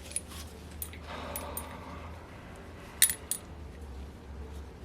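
Small metal engine parts and tools clinking against each other on a workbench: a few light, bright clicks, with the loudest pair of clinks about three seconds in, over a low steady hum.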